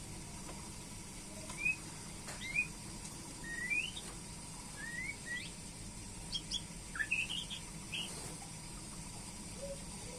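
White-rumped shama (murai batu) giving short, rising whistled notes, spaced out at first, then a quicker run of notes about seven seconds in.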